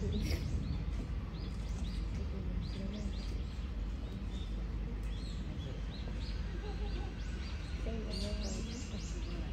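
Small birds chirping repeatedly in short high calls, with a cluster of calls near the end, over a steady low background rumble and faint wavering human voices.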